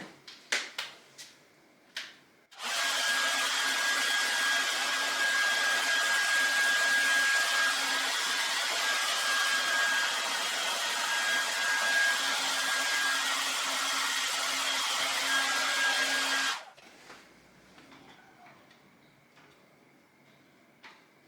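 An electric hot-air blower runs steadily for about fourteen seconds, a loud hiss with a constant whine, then switches off suddenly. A few clicks and knocks come before it starts.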